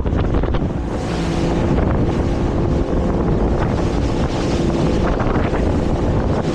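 Motorboat under way: the engine runs steadily under loud wind buffeting on the microphone and rushing water.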